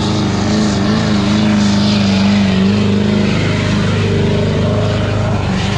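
Pulling truck's engine running hard at high revs as it drags a weight sled down the track, its pitch wavering slightly.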